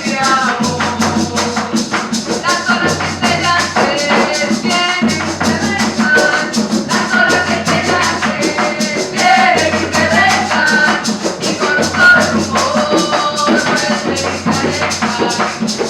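Live cumbia band playing, with a steady fast shaker rhythm over a repeating bass line and melody.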